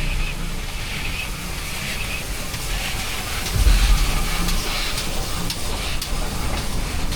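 Steam locomotive standing and hissing steam, with low rumbles and a few light metallic clicks.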